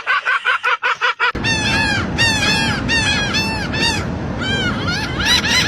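Gulls calling, a rapid string of repeated calls. About a second in they give way to loud, repeated arched calls over a steady rushing noise.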